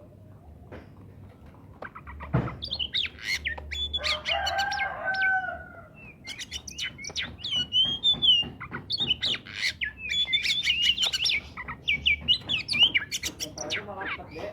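Oriental magpie-robin (kacer) singing loudly: rapid varied whistled notes, chirps and sweeping phrases that begin about two seconds in, with a lower drawn-out call underneath about four seconds in.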